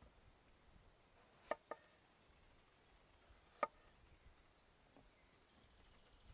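Three sharp clinks of kitchenware, each ringing briefly: two close together about a second and a half in, then a louder one about two seconds later, over an otherwise near-silent background.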